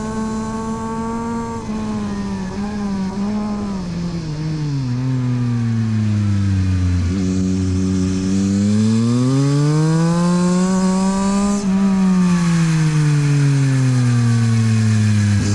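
Yamaha MT-09 SP's three-cylinder engine through a LeoVince exhaust, ridden hard on a track. Its note falls steeply with several short steps as it comes off the throttle and downshifts, runs low for a couple of seconds, then climbs under acceleration. It dips briefly at a gear change about eleven seconds in, falls away again off the throttle, and starts rising near the end.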